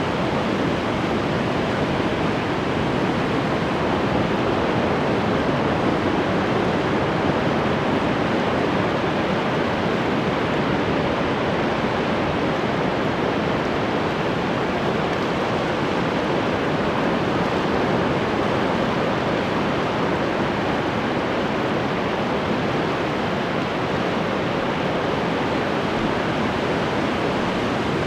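Ocean surf: a steady, even wash of breaking waves with no single crash standing out.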